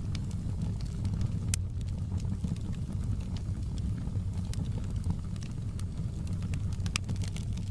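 Campfire burning with a steady low rumble of flame and scattered sharp crackles and pops from the burning wood, a couple of them louder.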